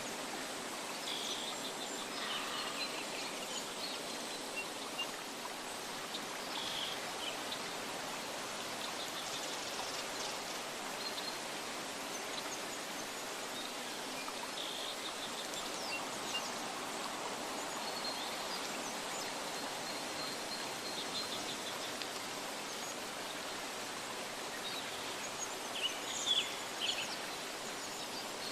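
Steady rushing of running water in a nature ambience, with short bird chirps scattered over it and a few louder ones near the end.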